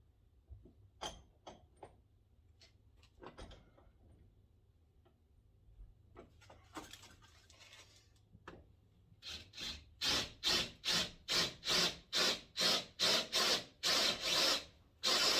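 Hand saw cutting with even back-and-forth strokes, about two a second, after a few scattered knocks of handling. Near the end a steady, loud machine noise starts.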